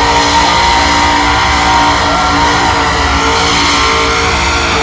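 Truck doing a burnout: engine held steadily at high revs while the rear tyres spin and screech on the pavement.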